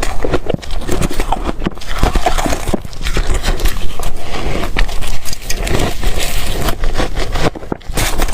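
Ice being chewed close to the microphone: loud, dense crunching and cracking, one crunch after another, easing briefly near the end.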